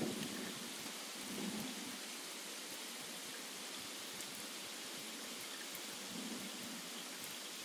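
Steady rain: an even hiss with faint scattered ticks of drops landing.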